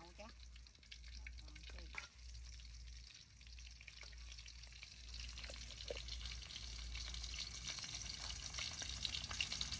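Food sizzling as it fries in a pan, a fine crackling hiss that grows louder toward the end.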